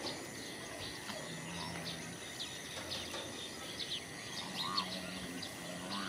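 Small birds chirping in many short, high calls over rural background noise, with a faint low drone twice.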